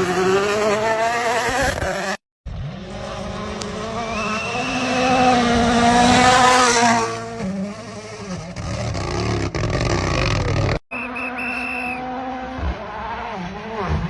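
Rally car engines at high revs, over several abrupt cuts between clips. Around the middle one engine rises in pitch and grows loudest as the car passes close, then drops away.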